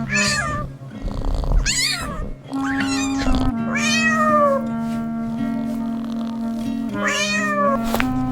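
A cat meowing about five times, each meow rising and then falling in pitch, over steady background music.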